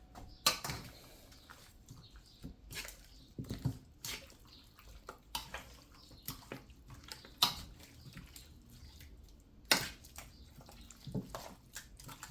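Hands mixing raw chicken pieces with a wet blended onion-and-garlic seasoning: irregular wet squelches and slaps, with a few louder slaps.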